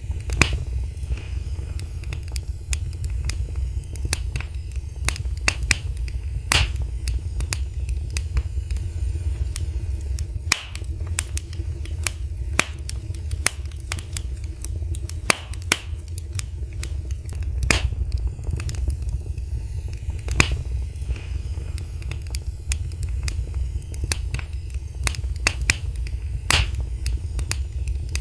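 Fireplace fire crackling, with irregular sharp pops and snaps, a few of them louder, over a steady low rumble of the flames.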